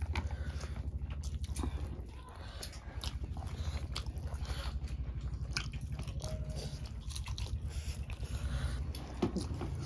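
Close-miked chewing and biting of two people eating rice, curries and green chillies by hand, with many wet smacking clicks and a few crunches, over a low steady hum.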